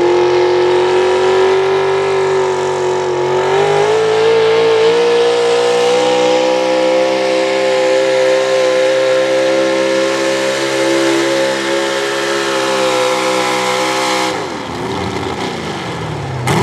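Pro stock 4x4 pulling truck engine at full throttle during a pull: the pitch winds up over the first few seconds, holds high and steady, then drops away sharply about fourteen seconds in as the engine comes off the throttle.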